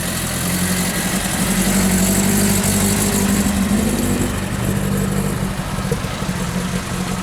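A vehicle engine idling steadily, its pitch nearly constant.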